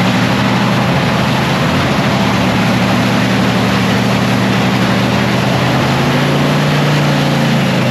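Supercharged nitromethane drag racing engine running steadily at a loud, lumpy idle during a pit warm-up.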